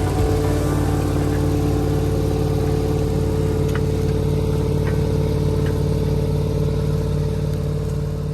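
Massey Ferguson 4840's V8 diesel engine running steadily at constant revs under load, holding an unchanging pitch.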